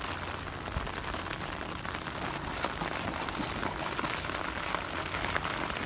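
Heavy rain falling steadily: an even hiss made of many drops striking.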